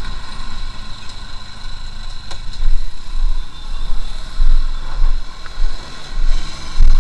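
Motorcycle riding along on the road, its engine running under heavy wind buffeting on the microphone that comes in uneven gusts.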